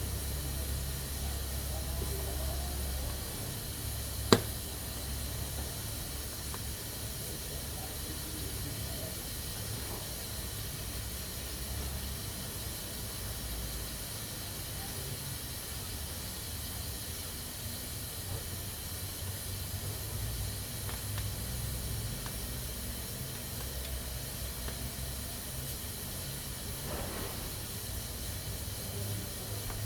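Pressure cooker letting off steam in a steady hiss, with a single sharp click about four seconds in.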